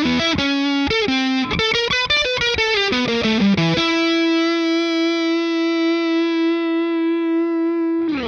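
Electric guitar with a distorted, effected tone played through Ross pedals: a quick lead phrase of single notes, then one note held with long, even sustain for about four seconds before it stops near the end.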